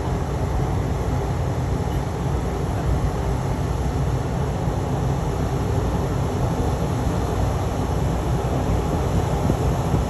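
Steady low rumble of a moving vehicle heard from inside: engine and road noise.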